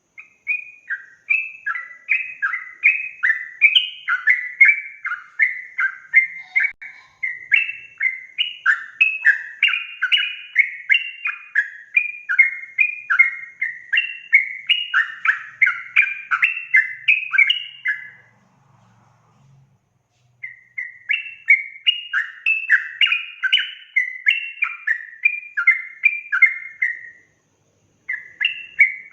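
Yellow-vented bulbul (trucukan) singing a fast, unbroken run of short bubbling notes in the rapid 'ropel' style. The song stops for about two seconds roughly two-thirds of the way through, resumes, and breaks off briefly again near the end.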